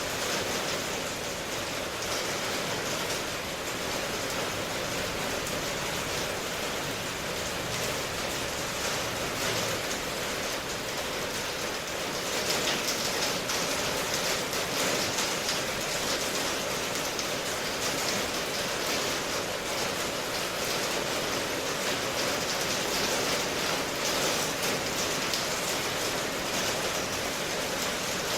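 Steady rain falling, an even hiss of rainfall with no distinct drops standing out.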